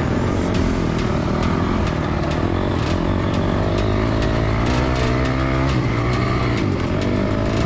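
Dirt bike engine running, its pitch shifting with the throttle, with regular sharp ticks about twice a second.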